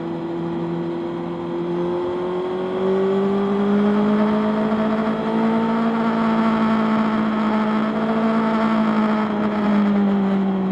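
Motorcycle engine running under way, its pitch climbing gradually through the first half and easing off slightly near the end.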